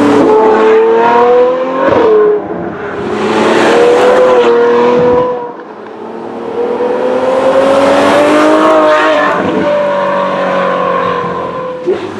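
Ferrari 812 Superfast's naturally aspirated V12 through an FM Performance valve-controlled sport exhaust, revving up under acceleration. About two seconds in the pitch drops suddenly as it shifts up. Midway it goes quieter as the throttle comes off, then it pulls again with a rising note that falls away near the end.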